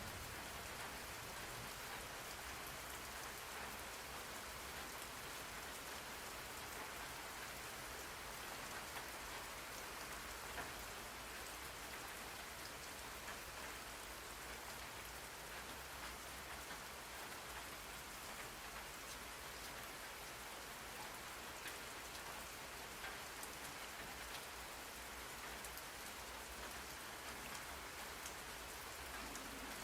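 Rain falling steadily, an even patter of drops on a surface, played as a background track for studying.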